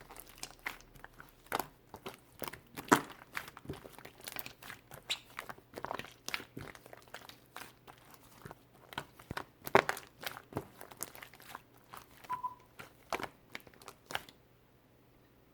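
Angel clay being squished and kneaded by hand, giving irregular crackly, crunchy snaps and crinkles several times a second; they stop about a second before the end.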